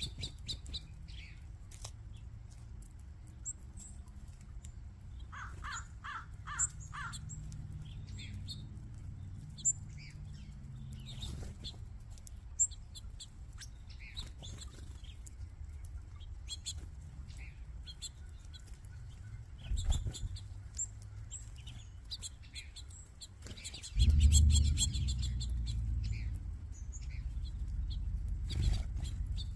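Many small finches and sparrows chirping and twittering over each other, short high calls throughout. A short run of about five quick repeated notes comes around a quarter of the way in, and near the end a sudden louder low rushing noise sets in and carries on.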